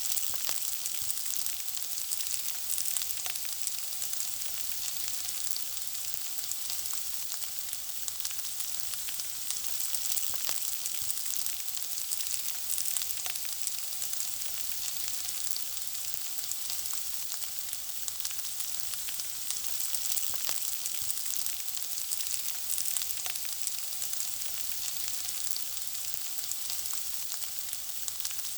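Food frying: a steady, mostly high-pitched sizzle, dense with fine crackles and pops.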